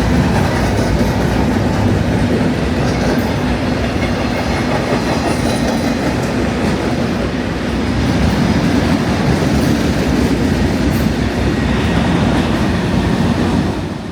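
BNSF intermodal freight train rolling past at close range, its wheels running steadily over the rails.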